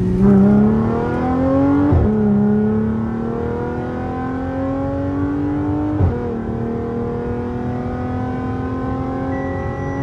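Audi S4 B8.5's supercharged 3.0-litre V6 with a loud exhaust accelerating hard through the gears: engine pitch climbs steadily, drops sharply at an upshift about two seconds in and again about six seconds in, then climbs again to a third shift at the very end. It pulls cleanly without breaking up, the misfires cured by new spark plugs and coil packs.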